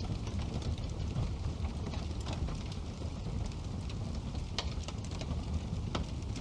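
Wood fire burning in a fireplace: a steady low rumble with scattered crackles and sharp pops, a couple of louder pops past the middle.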